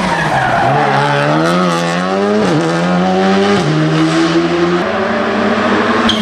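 Rally car engine under hard acceleration, rising in pitch and then changing gear about two and a half seconds in, with further gear changes after that.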